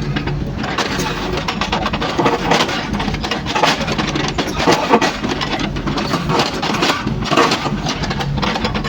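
Kobelco mini excavator's diesel engine running steadily, with irregular clattering and scraping of the bucket working through broken asphalt and rubble.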